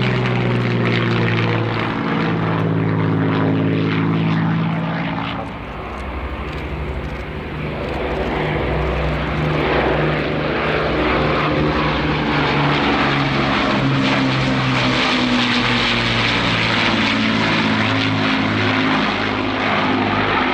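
Piston-engined propeller warbird passing low: the engine note drops in pitch over the first five seconds as it goes by, then settles into a steady engine drone.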